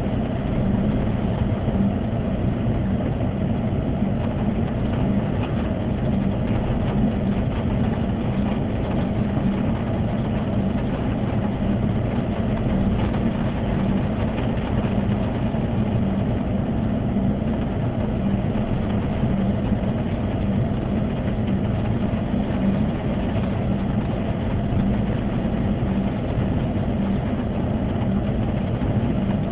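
Car engine idling, heard from inside the cabin as a steady low drone.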